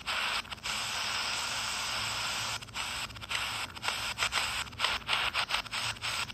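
Static hiss from a 4732 miniature radio tuned on the shortwave band between stations, a sign of poor reception. The hiss keeps dropping out briefly, often from about two and a half seconds in.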